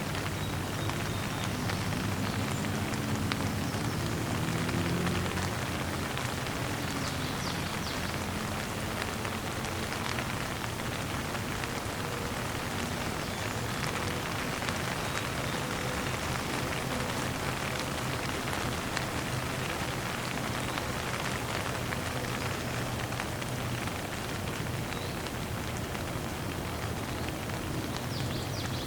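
Steady rain falling on the ground and surfaces, a dense, even patter of drops, with a faint low rumble swelling briefly a few seconds in.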